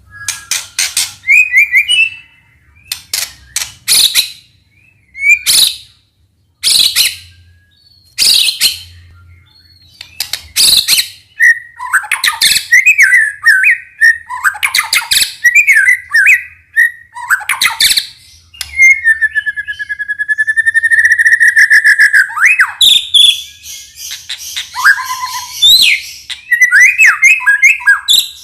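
White-rumped shama (murai batu) singing loudly in full voice: sharp, piercing single notes a second or two apart, then fast, varied chattering phrases and a long trilled whistle.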